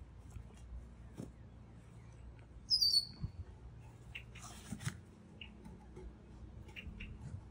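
A bird gives one short, high, falling chirp about three seconds in, the loudest sound here. Around it come faint knocks and, a little after the middle, a brief scrape as the wooden rollers under a large flagstone are shifted by hand.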